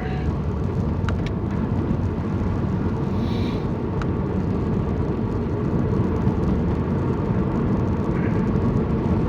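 Car cabin noise while driving: steady engine and tyre rumble, with a couple of faint ticks.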